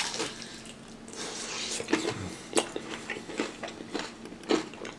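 Crunching bites into crispy batter-fried chicken wings coated in buffalo sauce, chewed in a run of sharp, irregular crackles.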